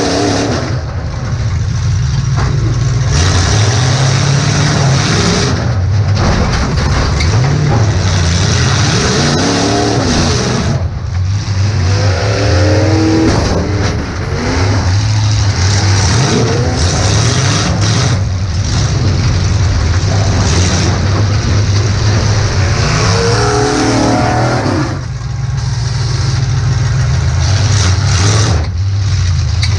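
Demolition derby car's engine running loud and revving up and down, heard from inside the car, with brief dips where the throttle comes off.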